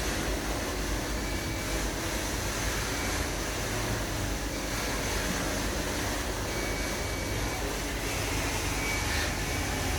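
Oil-and-antifreeze emulsion draining from a GAZelle engine's sump into a bucket: a steady pouring stream over a low workshop rumble. The emulsion shows that coolant has leaked into the engine oil.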